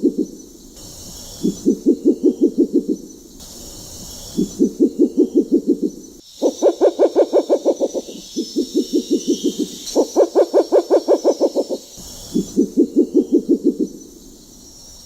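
Spectacled owl calling: repeated runs of rapid, low knocking hoots, each run about a second and a half long at around seven pulses a second. The runs alternate between a lower and a higher pitch.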